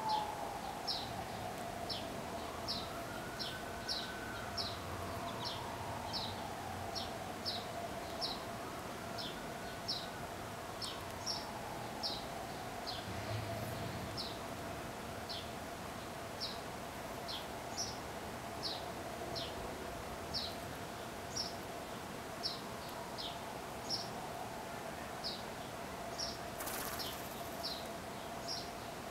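A bird chirping over and over in short, high chirps, a little more than one a second, over a steady hum with a fainter tone that slowly rises and falls.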